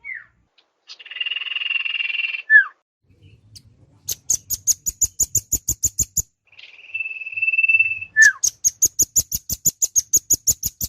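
Bird-lure recording of rambatan (velvet-fronted nuthatch) and sirtu calls: short downslurred whistles, a buzzy call and a steady trill, and two fast runs of sharp, high notes at about seven a second.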